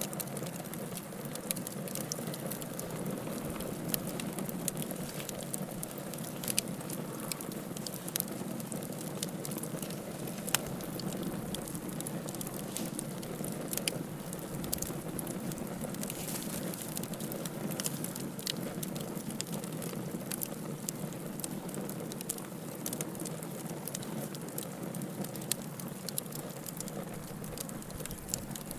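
Wood fire burning with a steady low rush of flames and frequent sharp crackles and pops from the burning logs.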